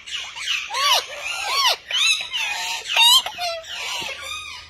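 Pet parrot calling: a quick series of short whistles and chattering chirps, several of them arching up and down in pitch.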